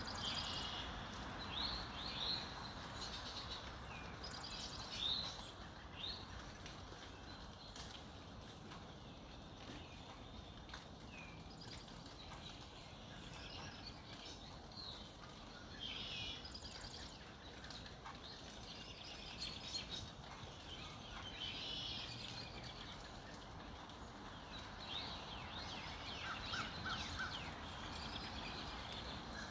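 Several songbirds chirping and trilling in short phrases, over a steady background hiss.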